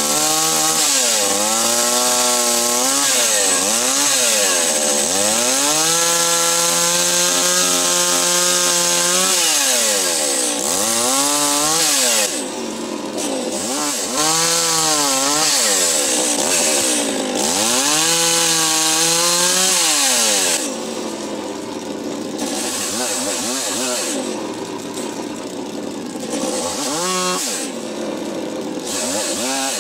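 Small two-stroke chainsaw revved up and down again and again, its pitch climbing to full speed, holding for a few seconds, then falling back. It gets somewhat quieter about two-thirds of the way through.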